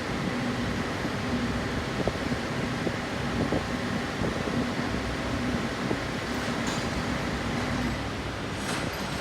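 Steady workshop background noise with a low hum, broken by a few faint light clicks, as of metal engine parts being handled.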